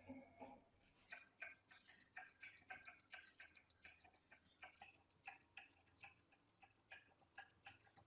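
Faint, rapid, irregular metallic clicking, several clicks a second, each with a short light ring, as small metal parts of the antique key cutting machine are handled or worked.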